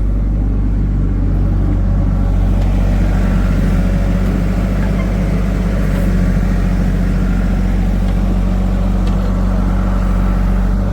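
Heavy diesel engine of a tractor or backhoe loader running steadily with a low, even drone; it grows a little fuller from about two seconds in.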